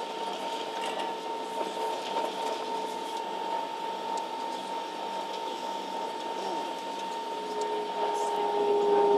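Steady cabin noise inside a Ryanair Boeing 737 on the ground before take-off: an even rushing hum with a steady high whine. About three quarters of the way through, a lower whine swells and grows louder.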